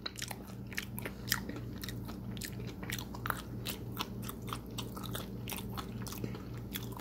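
A person chewing a mouthful of crispy fried chicken sandwich with many small, sharp crunches.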